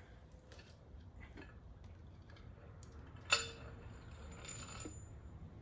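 Light metallic clicks of parts and tools being handled, then one sharp metal clink about three seconds in that rings on for about a second and a half.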